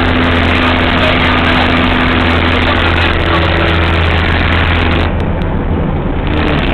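Loud steady engine drone of a moving vehicle under a heavy rush of wind and road noise, heard while riding in it. The rush eases briefly about five seconds in.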